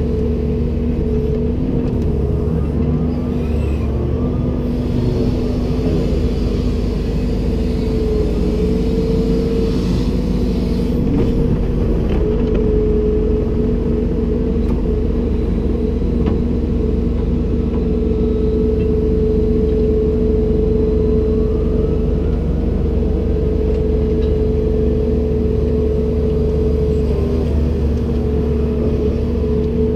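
Komatsu PC290-10 excavator's diesel engine running steadily under work, with a steady whine over the low rumble.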